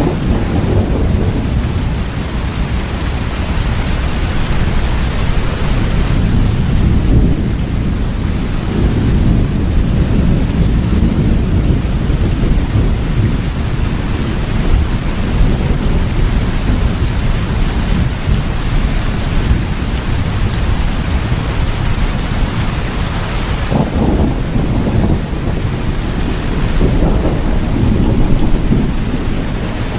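Steady heavy rain with a continuous deep rumble beneath it, swelling briefly about three-quarters of the way through and again near the end.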